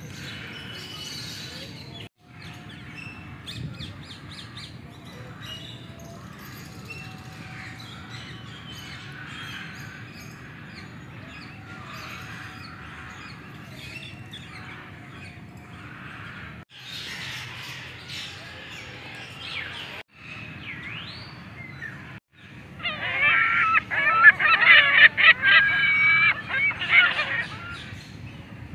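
Birds chirping and calling in the background. About three quarters of the way through comes a loud burst of shrill, rapid chattering calls lasting a few seconds.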